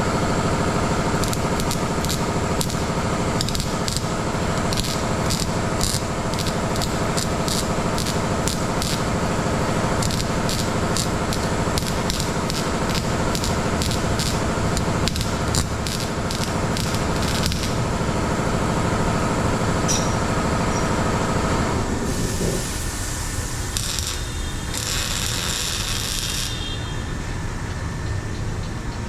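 Steady mechanical hum from exhaust-shop equipment with many sharp clicks and crackles over it. The hum cuts off about 22 seconds in and is followed by a few seconds of hissing.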